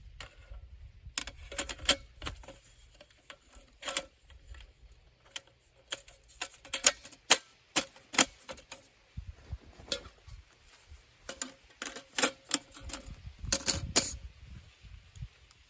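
A series of irregular, sharp clicks and taps, some close together and some spaced out, over a low steady background rumble.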